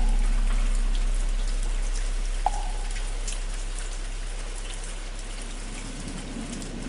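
Steady rain with scattered drop ticks, under the long fading hum of a struck temple bell. A single hollow wooden fish knock comes about two and a half seconds in.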